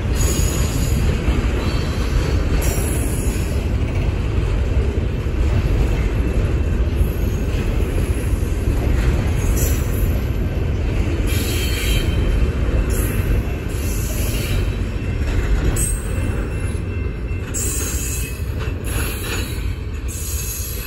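BNSF double-stack container train rolling past, a steady rumble and rattle of wheels and cars on the rails. Short high-pitched squeals come and go, more often in the second half. It eases off slightly near the end as the last cars pass.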